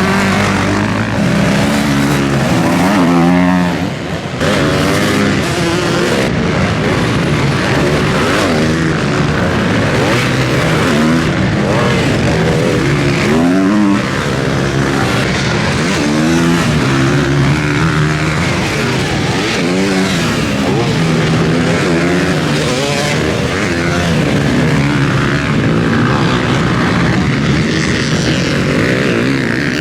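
Several motocross bike engines revving hard and backing off, their pitches rising and falling and overlapping as the bikes ride past.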